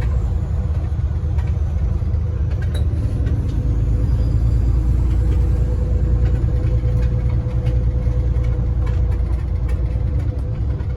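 Scania N94UD OmniDekka double-decker bus on the move: a steady low engine and road rumble with a faint steady whine and scattered small rattles.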